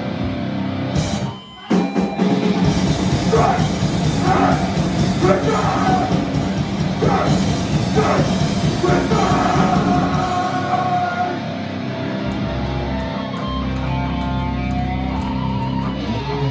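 Live hardcore band playing loud: distorted guitar, bass, drums and shouted vocals. The band stops for a moment about a second and a half in, then crashes back in. Near the end it settles onto held, ringing notes.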